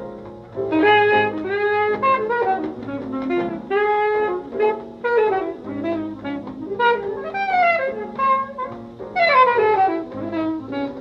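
Jazz recording with a saxophone playing a quick melodic line over a sustained low accompaniment, with a run of falling notes near the end.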